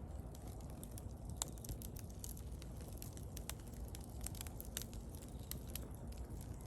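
Wood bonfire burning, with irregular sharp crackles and pops over a steady low rush of flame; one pop about one and a half seconds in is the loudest.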